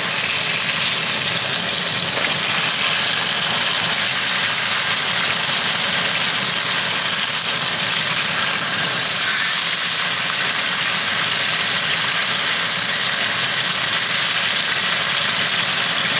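Salmon steaks sizzling steadily as they pan-fry in a little oil in a nonstick frying pan over medium heat.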